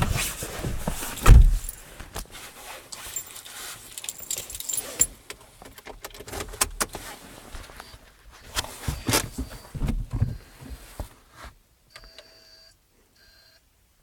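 Keys jangling, with clicks and knocks of handling inside a car, and no engine running. Then three short electronic beeps, each a steady tone with overtones.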